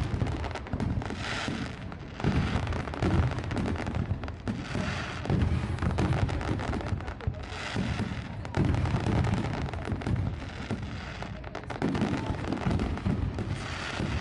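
Aerial fireworks display: shell bursts booming one after another in quick, irregular succession, each with a deep low rumble.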